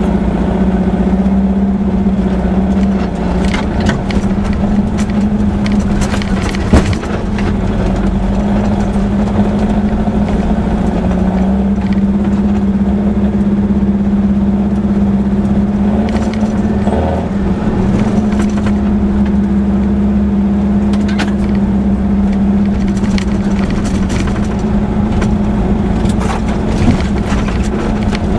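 A Baja Bug's air-cooled VW flat-four engine running at fairly steady revs, heard from inside the cab on a rough dirt trail. There are scattered knocks and rattles, with one sharp thump about seven seconds in.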